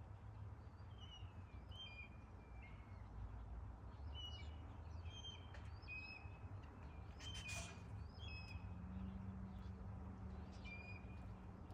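Small birds chirping: short, high, slightly falling chirps repeating every second or so, over a faint steady outdoor background.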